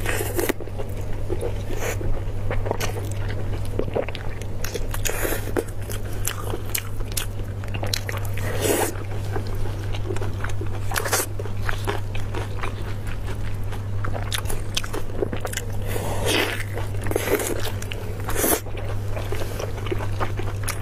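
Close-up eating sounds: teeth biting and pulling meat off sauce-glazed beef ribs and chewing it, a run of short sharp clicks with a few louder bites. A steady low hum runs underneath.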